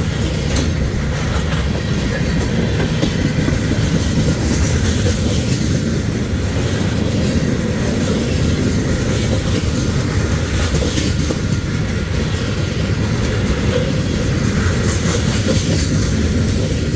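Freight train cars rolling past close by, a steady loud rumble with wheels clicking over the rail joints.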